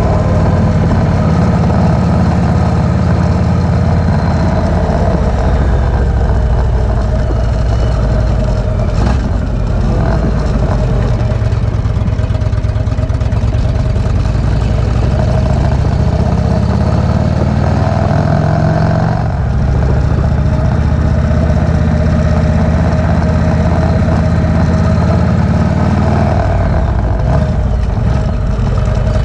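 V-twin cruiser motorcycle engine running under way: the engine note climbs, drops with a gear change about two-thirds of the way through, then climbs again near the end.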